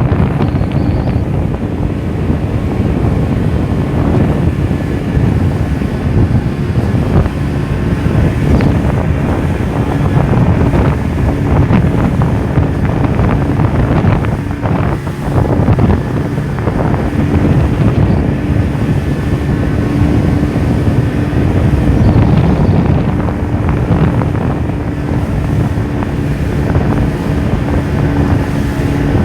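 Boat engine running at a steady pitch, with heavy wind buffeting the microphone and water rushing past the hull.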